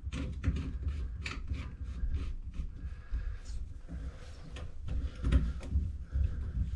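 Irregular clicks, taps and rubbing from hands handling fittings, with a steady low rumble underneath.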